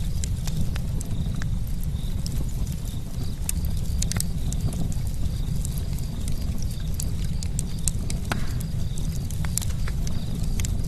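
Campfire burning, with irregular sharp crackles and pops over a steady low rumble of the flames; a few louder pops stand out about 4, 8 and 9.5 seconds in.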